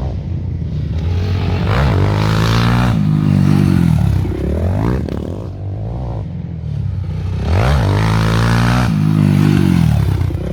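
Motocross motorcycle engines revving hard, their pitch climbing and falling again and again as bikes accelerate and shift, with two loudest surges.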